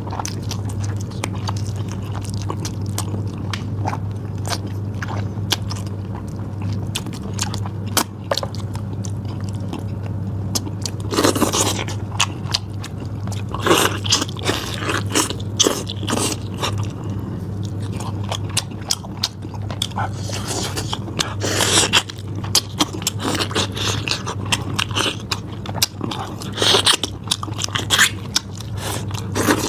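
Close-miked eating of meat: chewing and biting, with many short wet clicks and louder bite bursts every few seconds, over a steady low hum.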